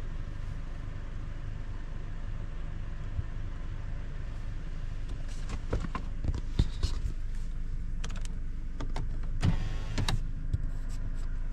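Vehicle engine idling, a steady low rumble heard from inside the cabin. Through the second half come scattered clicks and knocks of handling, and a brief whirring rattle about ten seconds in.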